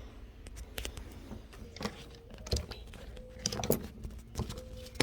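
Small clicks and taps of a wire, crimp terminal and crimping tool being handled, with a few faint, level, mid-pitched tones of about half a second each.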